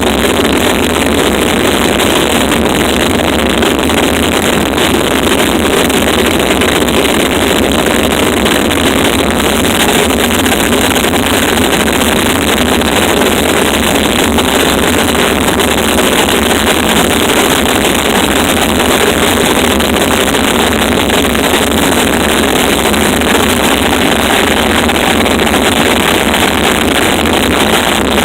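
Harsh noise music played live: a loud, unchanging wall of distorted static, heaviest in the low-mid range.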